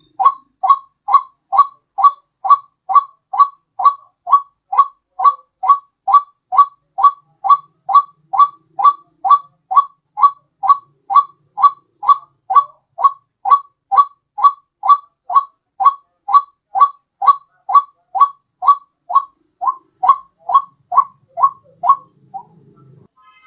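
White-breasted waterhen (ruak-ruak) call played as a trapping lure: one short note repeated steadily about twice a second, pausing briefly near the end.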